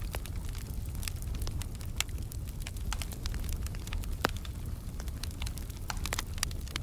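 Wood fire crackling in a fireplace: irregular sharp pops and snaps over a low, steady rumble of the flames. A louder pop comes about four seconds in.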